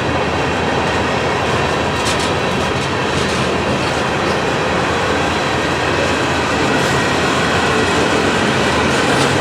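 Manifest freight train rolling past at close range, a loud, steady noise of steel wheels on rail that does not let up.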